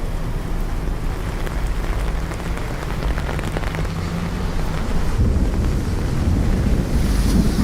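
Steady rain falling in a city street, with a low rumble underneath that grows louder about five seconds in. A brief hiss rises near the end.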